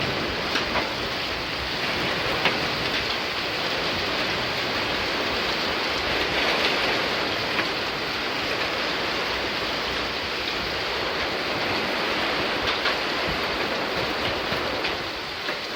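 Heavy thunderstorm downpour: a steady hiss of rain, with scattered sharper ticks of drops striking nearby surfaces.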